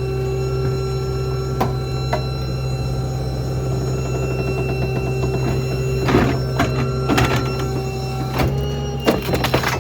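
Small Ford F-550 rear-load garbage truck running with a steady mechanical hum. A couple of knocks come in the first few seconds, then a cluster of clanks and thuds in the second half.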